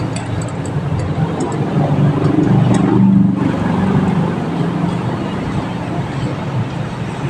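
Honda TMX 125 Alpha's single-cylinder four-stroke engine running steadily during a tune-up.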